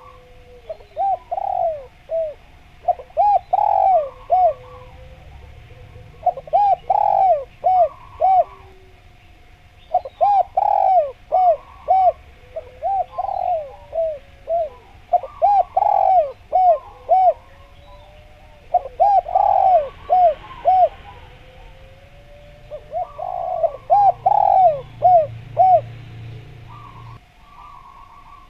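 Spotted dove (derkuku, tekukur) singing vigorously, a repeated cooing song. There are about six phrases, each of several quick coos, separated by short pauses.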